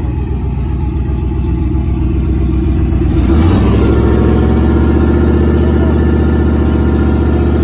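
A vehicle engine running at a pulsing idle, then revved up about three seconds in and held at higher revs.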